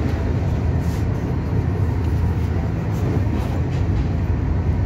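Shatabdi Express passenger coach running at speed, heard from inside the carriage: a steady, loud, low running rumble with a few faint clicks over it.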